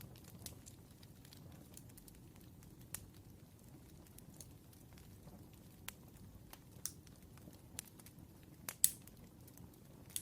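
Wood fire crackling: irregular pops and snaps over a soft low rumble, with the loudest pop near the end.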